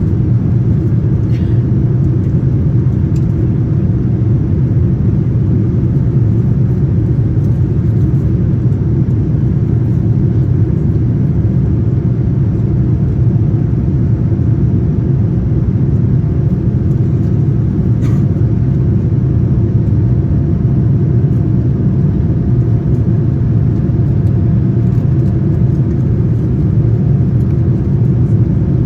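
Steady low rumble of engine and airflow noise inside the cabin of a Boeing 787-9 in motion, with a faint steady hum above it.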